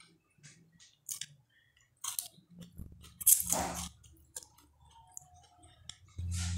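Close-miked chewing and wet mouth clicks of a woman eating a mouthful of watercress salad and rice by hand. A low steady hum comes in near the end.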